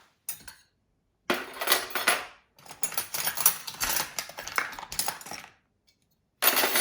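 Metal spoons clattering and clinking as they are put into a cutlery drawer, in two bursts of rapid clinks with short pauses between.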